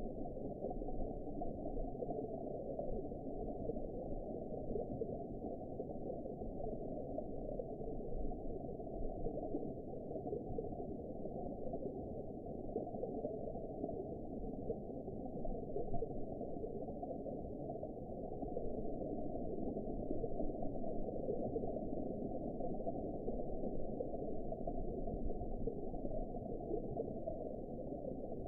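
Underwater ambience: a steady, deep, muffled wash of water sound with a faint gurgling texture and no distinct events.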